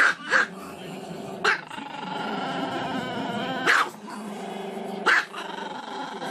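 Chihuahua barking with its head thrown back: five sharp, high barks at uneven gaps, with a drawn-out, wavering howl between them.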